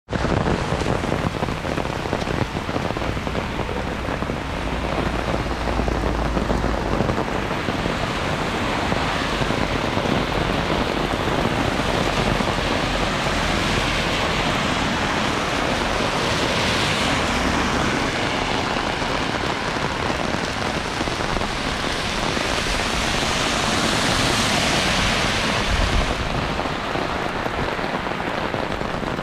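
Heavy rain falling steadily on hard surfaces: a dense, even hiss that swells twice, around the middle and again near the end.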